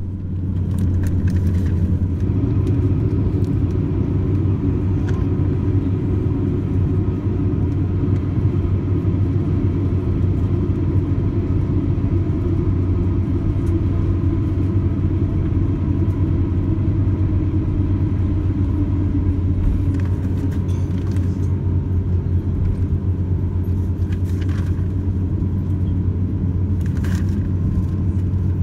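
Airbus A350-900's Rolls-Royce Trent XWB engines at takeoff thrust during a long takeoff roll, a steady loud rumble with a deep hum and the wheels rolling on the runway. A few light rattles come late on.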